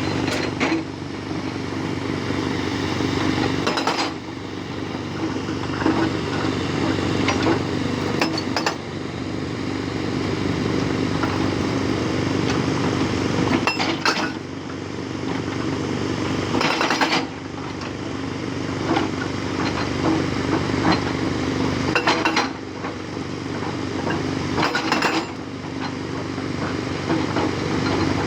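Hydraulic rock breaker on a Tata Hitachi 200 excavator hammering rock: rapid metallic chattering blows in bursts of a few seconds, each cutting off abruptly, over the steady hum of the excavator's diesel engine.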